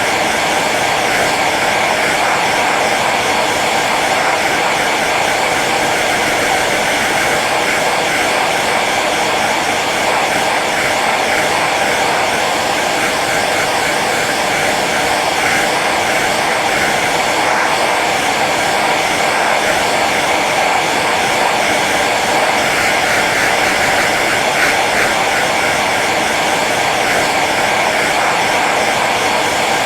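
Hair dryer running steadily on its low setting: an even rush of blown air with a faint motor whine.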